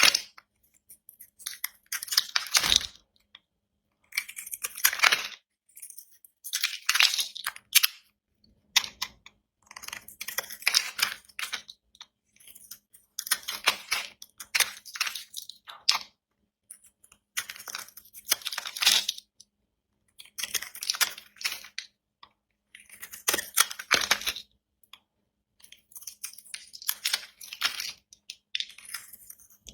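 A knife cutting through dry bar soap, each stroke a crisp crackling crunch of many small clicks lasting about a second, repeated about a dozen times every two to three seconds.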